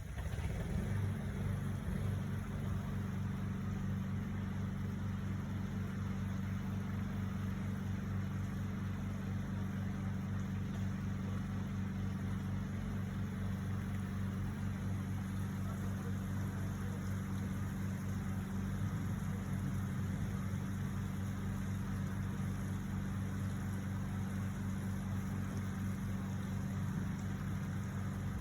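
A steady, low motor hum that starts and stops abruptly.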